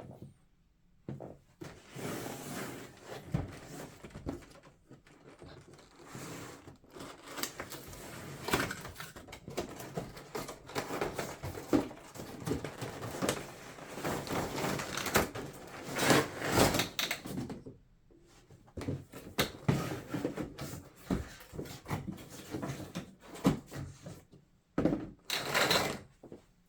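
A model's packaging being opened and handled by hand: irregular rustling, scraping and knocks of box and packing material, with a couple of brief pauses.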